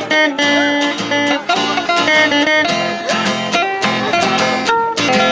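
Acoustic guitars plucking and strumming an instrumental interlude between the verses of a sung country song.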